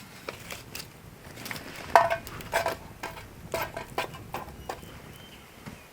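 Small metal char tin knocking and clinking against wood and stones as it is set into a campfire: a series of separate knocks, a few with a short metallic ring, the loudest about two seconds in.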